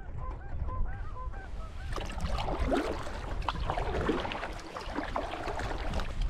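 Geese honking, many calls overlapping, loudest from about two seconds in to five seconds in.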